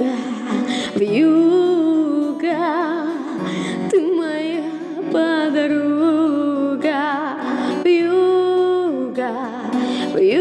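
Music: a woman singing long held notes with strong vibrato over an instrumental accompaniment.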